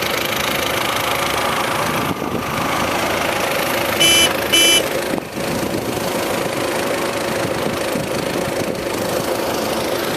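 Model truck's engine running steadily with a knocking, idling beat, and two short horn toots about four seconds in.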